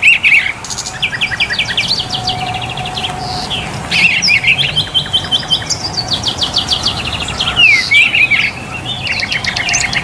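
Several songbirds chirping and trilling at once, with fast runs of repeated high notes and short whistled slides overlapping.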